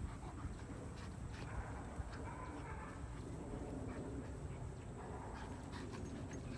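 Faint sounds from Cane da Presa Meridionale mastiffs over a low steady rumble, with scattered light clicks.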